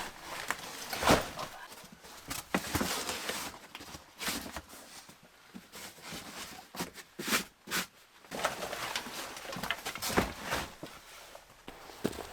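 Irregular crunching steps and knocks in snow, unevenly spaced.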